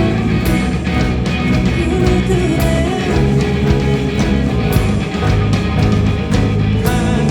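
Live rock band of drums, bass, electric guitars and keyboard playing an instrumental passage, with cymbal crashes standing out every second or two.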